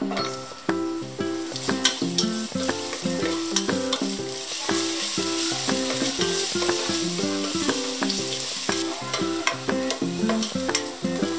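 Ginger matchsticks sizzling in hot oil in a nonstick pot while a spatula stirs them, with short scraping clicks of the spatula against the pot. The sizzle swells a second or two in as the ginger hits the oil.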